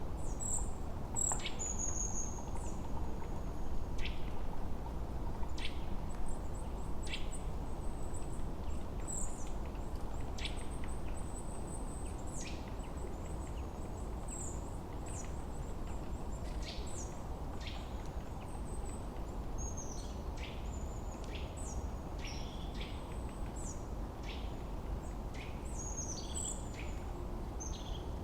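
Wild birdsong: many short, high chirps and quick descending whistles from several birds, scattered throughout, over a steady low rush of wind in the forest.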